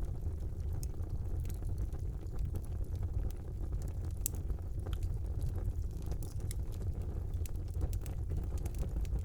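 Wood fire burning in a brick fireplace: a steady low rumble of the flames with frequent sharp crackles and pops scattered throughout, one louder pop a little past four seconds in.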